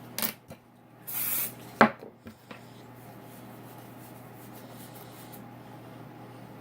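Aerosol hairspray can spraying: a short spritz, then a longer hiss of about half a second, sprayed onto teased hair. A sharp knock follows just after, the loudest sound, with a few small clicks.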